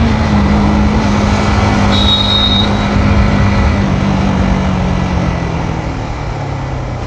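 Yamaha MT-15 V2's single-cylinder engine with its stock exhaust running on a ride, its pitch slowly falling as the bike eases off. A brief high beep sounds about two seconds in.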